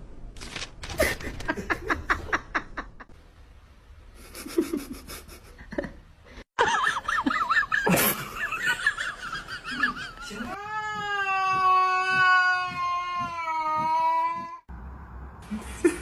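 Several short clips: people laughing and cats making noise, ending in a cat's long drawn-out yowl that holds for about four seconds and slowly falls in pitch.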